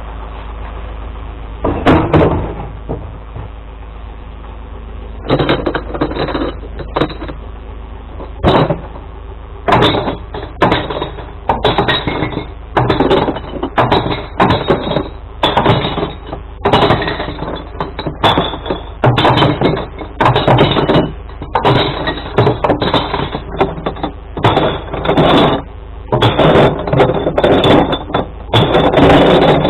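Glass bottles and jars crashing and shattering into a glass recycling truck's compartment in a long string of separate bursts, over the steady low hum of the idling truck.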